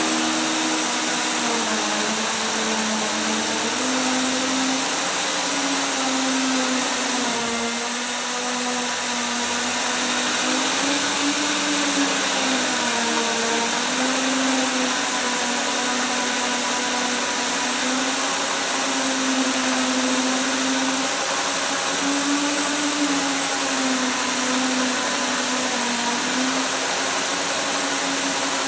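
BYCON DB-202 brushless dry core drill running continuously, its motor pitch dipping and rising slightly over a dense grinding hiss.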